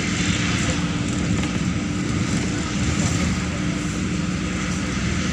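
Steady drone of a Neman city bus heard from inside the passenger cabin: the diesel engine's hum with road and running noise.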